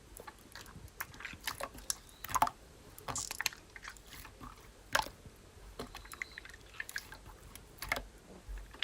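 Slime being squeezed and worked by hand, giving irregular sticky crackles, small pops and squishes.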